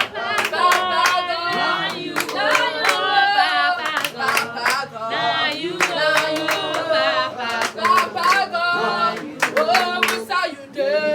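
Voices singing a praise-and-worship song, with hands clapping along.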